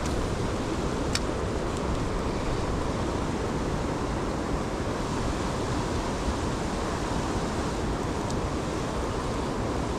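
Steady rushing of a fast-flowing stream, with a single faint click about a second in.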